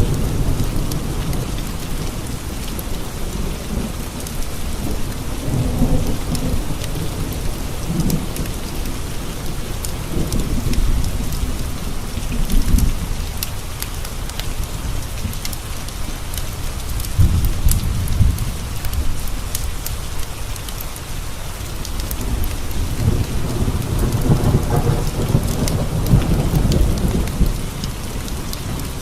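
Steady rain pattering on window panes, with thunder rumbling low several times.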